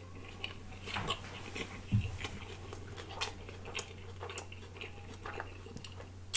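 Close-miked mouth sounds of eating: chewing with many short wet clicks and lip smacks, and a soft low thump about two seconds in, over a faint steady low hum.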